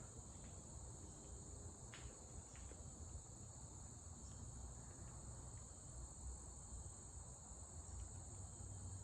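Faint sound of Emerson ceiling fans coasting down after being switched off, a low uneven rumble under a steady high-pitched tone.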